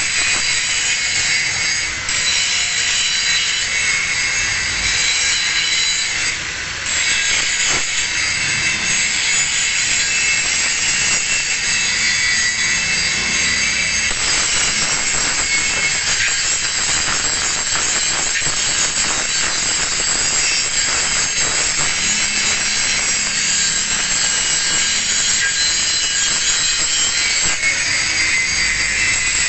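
Angle grinder grinding a single bevel on a steel plate: a steady, high grinding noise that eases off briefly twice, near two seconds and about six and a half seconds in.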